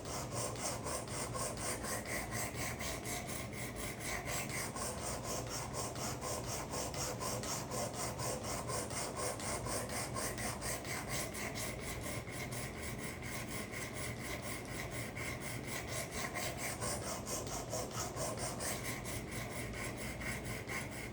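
Sharpening stone of a Work Sharp guided sharpener rasping along a karambit's edge in rapid, even, back-and-forth strokes, working the edge to raise a burr.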